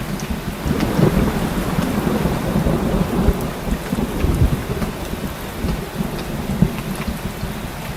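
Heavy rain falling steadily, with a continuous low rumble of thunder underneath.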